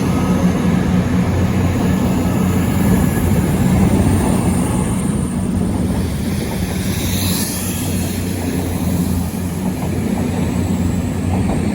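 Two coupled Class 220 Voyager diesel-electric units pulling out of the station, their underfloor diesel engines running under power with a steady low drone. A brief high squeal comes about seven seconds in.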